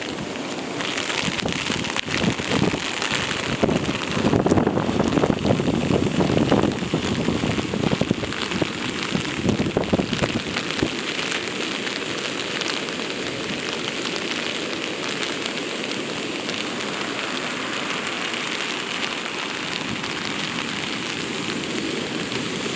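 Hurricane storm noise: heavy surf rushing and breaking amid wind and rain, with wind buffeting the phone's microphone. Louder low surges come and go for about the first ten seconds, then it settles into a steadier rushing hiss.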